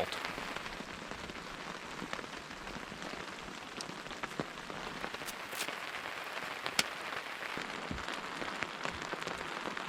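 Steady rain falling, an even hiss broken by a few scattered sharp ticks of drops, one a little louder about two-thirds of the way through.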